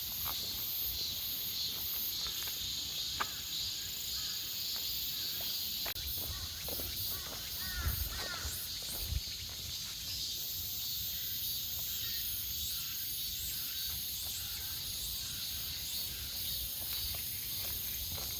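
A steady, high-pitched chorus of cicadas and crickets, with footsteps on a path and a few short bird chirps about halfway through.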